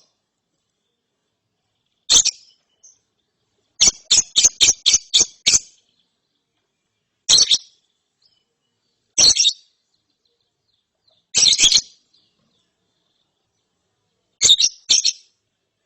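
Young lovebird giving short, shrill, raspy chirps. It makes single calls and pairs, with one quick run of about seven about four seconds in.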